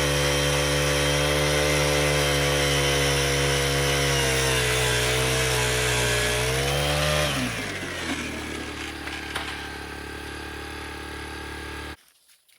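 Propane ice auger engine running at full throttle while drilling a hole through thick ice, its pitch sagging slightly under load. About seven seconds in the throttle is let off and it drops to a lower, quieter idle, then stops abruptly near the end.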